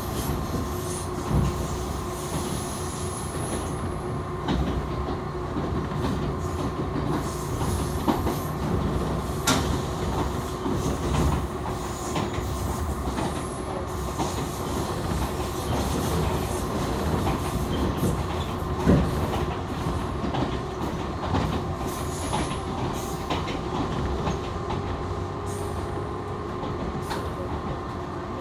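Steady running noise of a local electric train, heard from inside the carriage: wheels rumbling on the rails with a faint steady hum. A few short knocks come through, the sharpest about a third of the way in and again near two-thirds.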